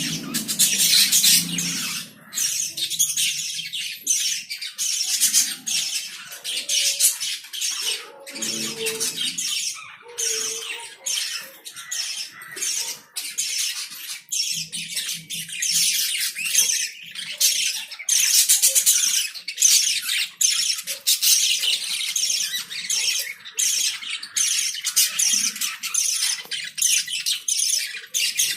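A flock of pet lovebirds calling constantly, many shrill chirps and squawks overlapping in a dense chatter.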